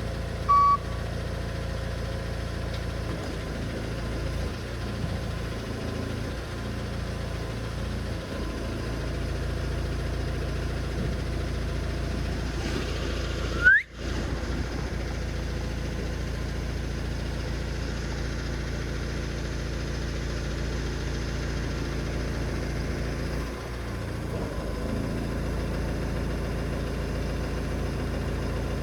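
A large forklift's engine running steadily at a low, even idle. A single short beep sounds about half a second in, and a brief rising squeal is heard around the middle.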